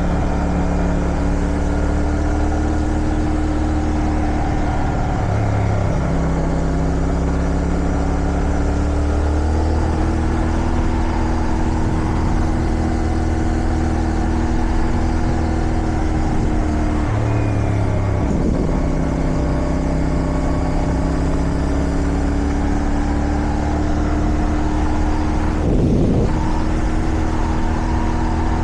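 Motorcycle engine running under way, heard from the rider's seat with wind noise. The engine note holds and drifts in pitch, breaking and changing briefly a few times (about 5 s in, about 17 s in and near the end), as at gear changes.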